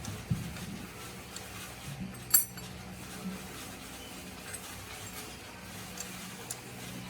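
Light metallic clinking: one sharp clink about two and a half seconds in and a few fainter taps, over a steady low hum.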